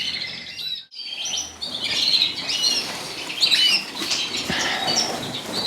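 A room full of caged canaries and finches chirping and twittering together, many short overlapping calls, with a brief dropout just under a second in.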